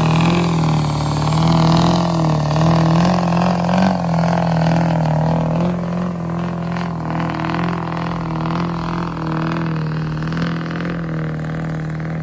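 Cummins diesel pickup engine held at high, steady revs, its pitch wavering slightly, with no break for over ten seconds.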